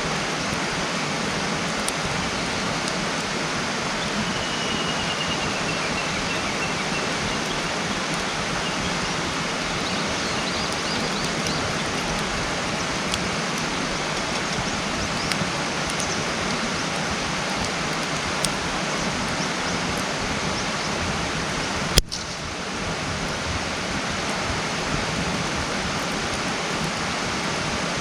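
Wood campfire burning, with scattered crackles and one loud sharp pop about three quarters of the way through, over a steady rushing hiss. A faint thin whistle falls slightly about four seconds in.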